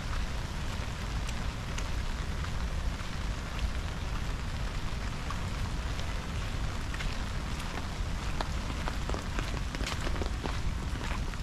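Steady rain falling, a continuous hiss with many sharp drop ticks that come more often near the end, over a low rumble.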